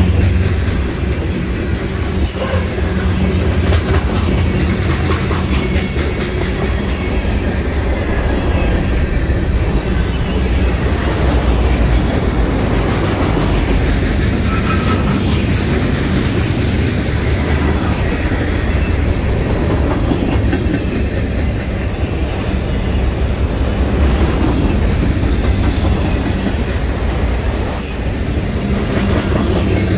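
Freight train cars rolling past at close range: a steady low rumble of steel wheels on the rails, with repeated clicking as the wheels cross rail joints.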